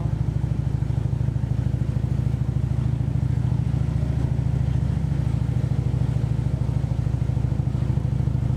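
Harley-Davidson V-twin engine running at a steady cruise, heard from on the motorcycle, a low, fast, even pulsing with no change in speed.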